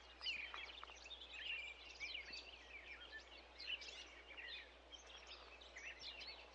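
Faint birdsong: several small birds chirping and twittering in quick, overlapping calls.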